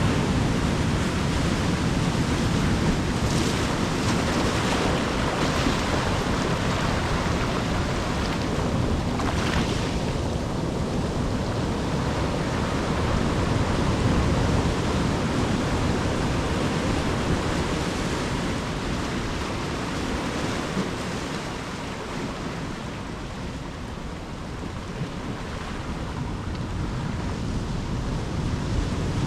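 Ocean surf washing ashore, a steady rush of breaking waves that swells and ebbs, with a few brighter hissing washes in the first third and a lull about three-quarters of the way through; some wind noise on the microphone.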